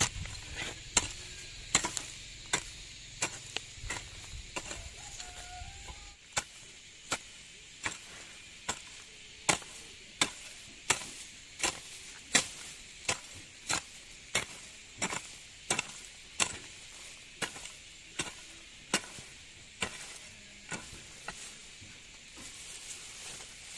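Steady, rhythmic chopping strokes of a hand tool, each a sharp knock, coming a little faster than one a second throughout.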